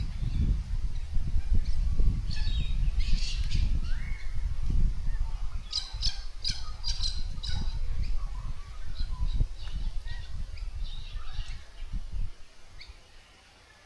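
Several birds calling around a bird bath: scattered chirps and short rising whistles, and a quick run of about six sharp high calls about six seconds in. Under them is a heavy low rumble of wind on the microphone, which dies away near the end.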